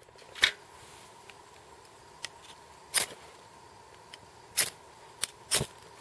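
Six or so sharp clicks and light knocks, spaced unevenly, over a faint steady hiss.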